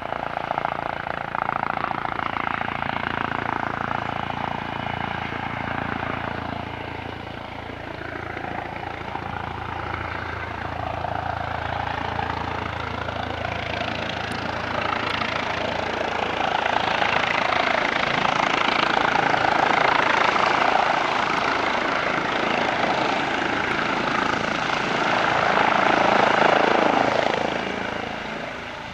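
Airbus H135 helicopter's rotor and turbine noise, swelling and easing as it flies, loudest late on and then fading just before the end.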